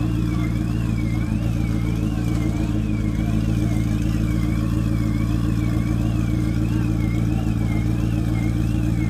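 Turbocharged McLaren's twin-turbo V8 idling steadily, with no revs. A thin high warbling tone rises and falls about one and a half times a second over it.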